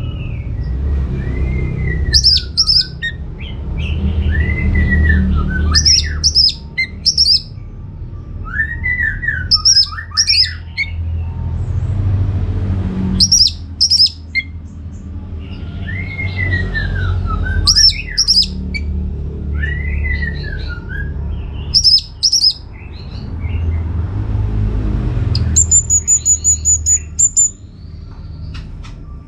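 Orange-headed thrush singing: repeated phrases about every four seconds, each a swooping whistle followed by a burst of sharp high notes. Near the end a fast, high pulsing trill comes in, over a steady low rumble.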